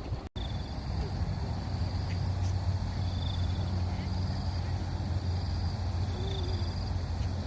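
Outdoor park ambience: a steady high insect drone with short high chirps repeating about once a second, over a steady low rumble.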